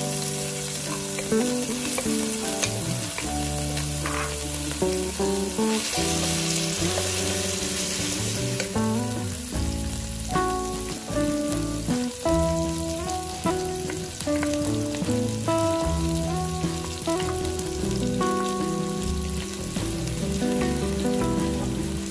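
Chopped garlic, chili, shallots and cilantro roots sizzling in hot oil in a wok while a wooden spatula stirs them. The sizzle swells for a few seconds in the middle, over background music.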